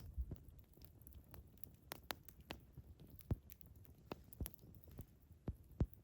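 Wood campfire crackling: irregular sharp snaps and pops over a low steady rumble, the loudest snap near the end.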